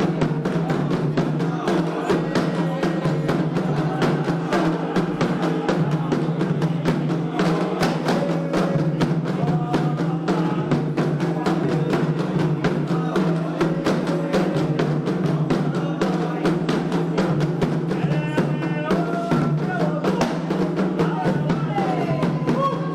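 Candomblé ritual drumming on atabaques: a dense, fast run of hand-drum strokes, with voices singing over it.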